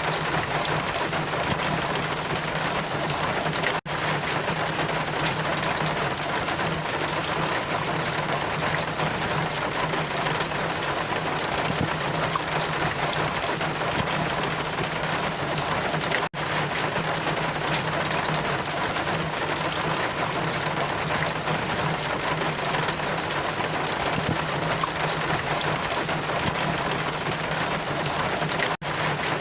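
Steady rain and wind: an even hiss with a steady low hum beneath it. It cuts out for an instant three times, at even spacing about twelve seconds apart.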